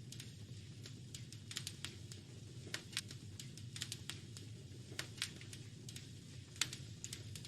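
Wood fire crackling in a fireplace: irregular sharp snaps and pops, a few louder ones, over a steady low rumble of the flames.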